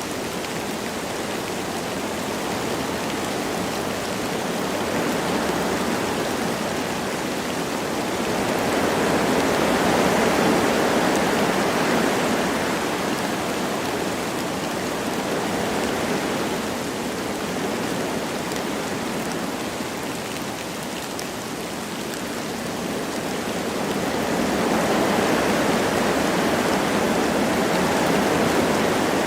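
Wind blowing through forest trees with light rain falling, a steady rushing hiss that swells in gusts about a third of the way in and again near the end.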